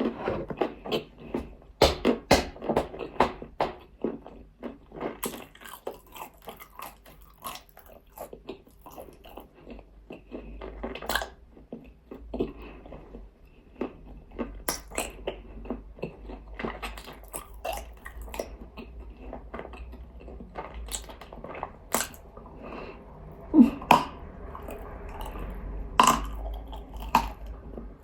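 Close-up crunching and chewing of nzu, a dry edible white clay: many sharp, crisp crunches at an irregular pace as pieces are bitten and ground between the teeth.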